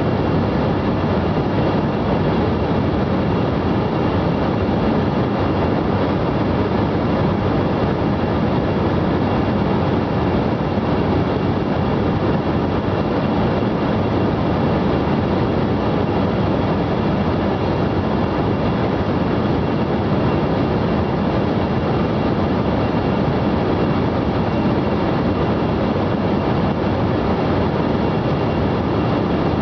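Steady jet airliner cabin noise in flight: a constant rushing rumble of airflow and engines, with faint steady high tones running through it.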